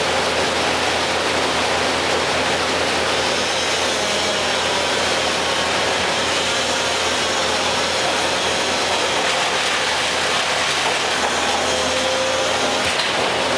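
Heavy machinery engine running steadily at a constant level.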